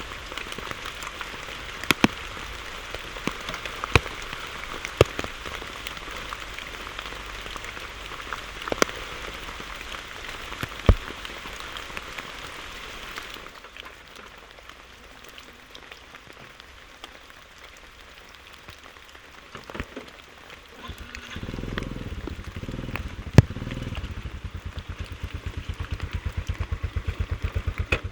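Steady rain pattering, with sharp clicks of heavy drops hitting close by. Then the sound cuts to something quieter, and about two-thirds of the way in a motorcycle engine starts and settles into an even, rapid idle.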